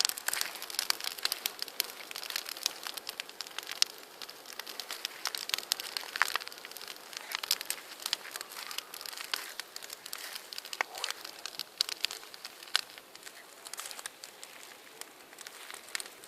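Large wood bonfire burning, a dense irregular crackling with sharp pops and snaps throughout.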